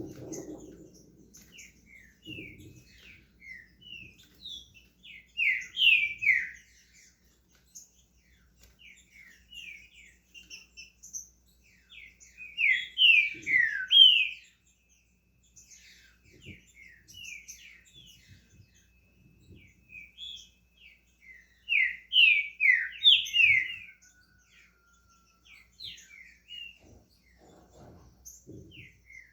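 Green-winged saltator (trinca-ferro) singing: three loud phrases of quick, down-slurred whistled notes, with softer scattered chirps between them as it starts into its song.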